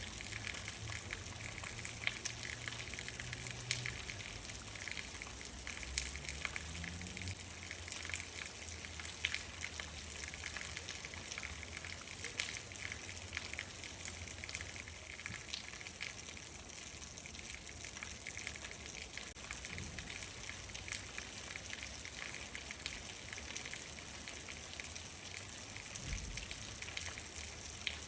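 Steady rain falling, with many distinct drops hitting a surface over a continuous hiss and a low rumble underneath.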